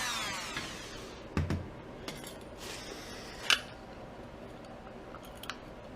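A few sharp clicks and a dull knock of small hard parts being handled and set down, the loudest click about three and a half seconds in. A pitched tone slides down and fades out in the first second.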